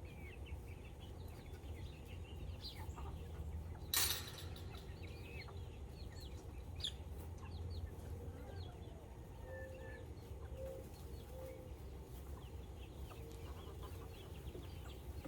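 Chickens clucking, with many short high peeps from chicks throughout. A single sharp knock about four seconds in.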